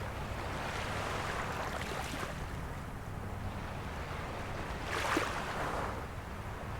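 Small sea waves washing onto the shore in gentle swells, with one louder splash a little after five seconds in, over a steady low hum.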